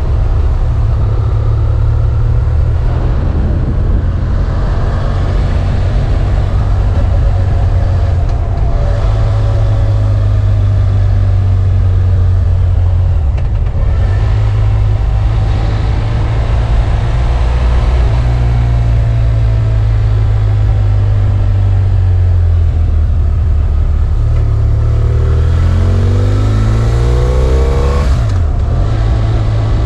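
BMW F800 ST's parallel-twin engine running under way over a heavy, steady low rumble, its pitch climbing as it accelerates in the last few seconds, then dropping suddenly near the end.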